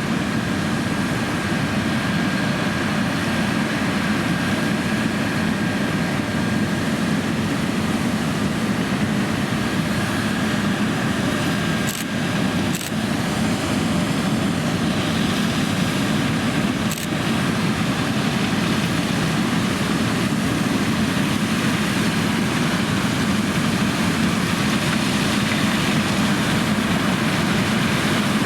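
John Deere X9 1100 combine harvester running steadily under load while harvesting oilseed rape, with a faint steady whine over the machine noise and three brief clicks around the middle.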